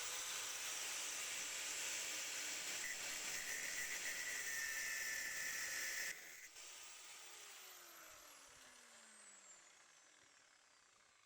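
A high-speed power tool spins up and cuts into metal with a loud hiss and steady whine for about six seconds. It is then released and winds down, its whine falling in pitch and fading over the next few seconds.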